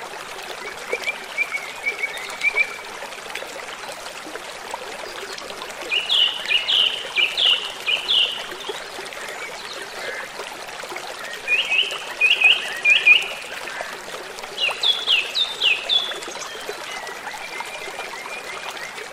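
Birdsong: a bird singing phrases of short, quick downward-slurred whistled notes, three times, with fainter, lower chirping near the start and end, over a steady rushing background like a stream.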